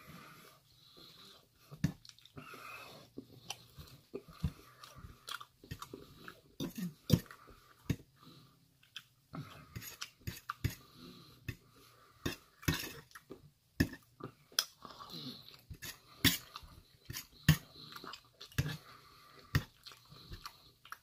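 A person chewing mouthfuls of Chinese takeout food, with irregular sharp clicks and clinks of a fork against a stainless steel plate.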